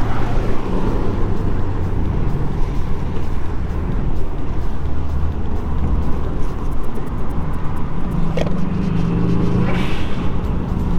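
Subaru Impreza WRX's flat-four boxer engine running on the move over steady road noise, its note climbing about eight seconds in.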